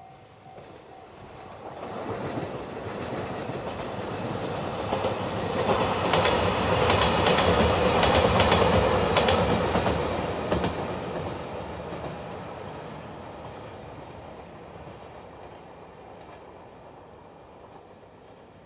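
JR Shikoku 2700 series Anpanman train, a diesel multiple unit, passing by. Its running noise builds from about a second in, peaks in the middle with a run of rapid wheel clicks over the rail joints, then fades slowly as it moves away.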